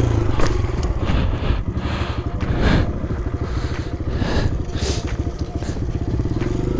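Kawasaki KLX pit bike's single-cylinder four-stroke engine running as it is ridden round in a circle, the revs varying.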